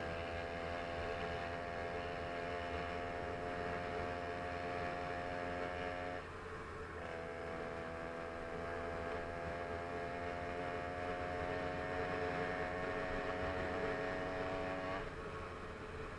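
Small engine on a motorised bicycle running at a steady pitch. The note drops out for a moment about six seconds in, comes back, and cuts out about a second before the end, leaving a duller rumble.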